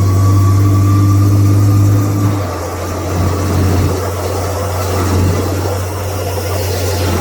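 A mega mud truck's engine heard from inside the cab: a steady low drone for the first couple of seconds, then it eases off into a rougher, noisier rumble, and the drone comes back near the end.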